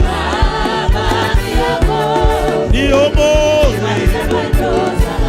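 Gospel worship music: several voices singing a Swahili praise chorus over a steady band beat with bass.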